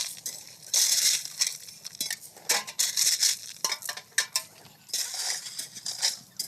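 Gravel being scraped and crunched in a run of irregular bursts, each lasting up to about a second, with a faint steady hum underneath.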